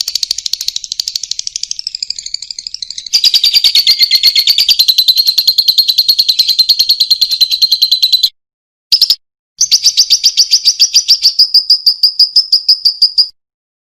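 Lovebird calling in long, fast chattering trills of rapid high-pitched notes, the sustained 'ngekek' call. The first run is softer for about three seconds, then louder, and lasts about eight seconds. After a short break and one brief burst, a second run of about four seconds follows.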